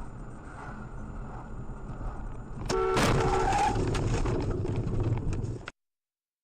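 Car road noise, then a car horn sounds briefly about three seconds in, together with a sudden loud crash-like impact. Louder noise follows until the sound cuts off abruptly near the end.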